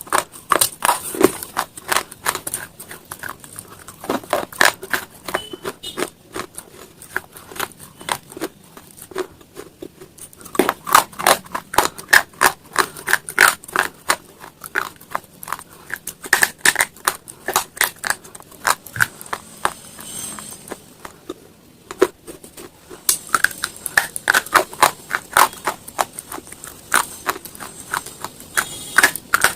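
Close-up crunching and chewing of hard, brittle slate stone pieces: a dense run of sharp, irregular crackling crunches, with short pauses between mouthfuls.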